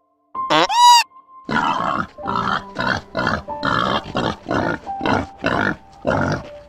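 A pig grunting over and over, two to three rough grunts a second, after one short high arching call at the start.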